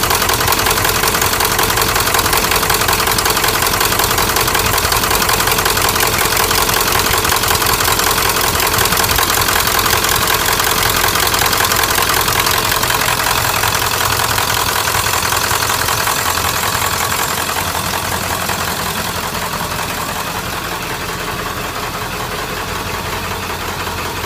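1997 Ford F-350's 7.3-litre Power Stroke turbo-diesel V8 idling with a rough knock, a sound the owner puts down to bad injectors. It gets somewhat quieter over the last several seconds.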